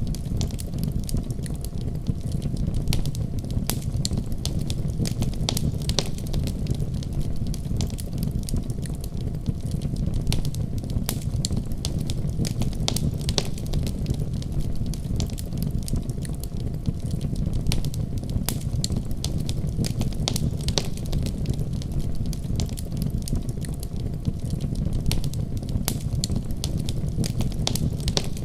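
Wood fire crackling in a fireplace, with many sharp, irregular pops over a steady low rumble and the hiss of heavy rain.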